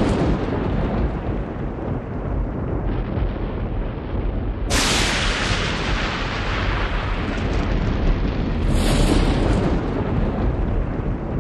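Wind buffeting the camera microphone: a loud, steady rumbling noise with no voices. The noise changes abruptly, brightening suddenly about five seconds in and again near nine seconds, as at edit points.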